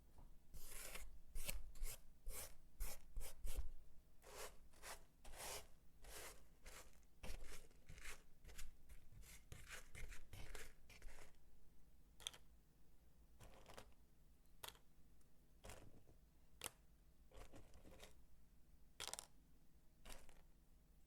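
Dry bar soap being worked by hand into crisp crunching strokes, quick and close together for the first ten seconds or so, then sparser single crunches.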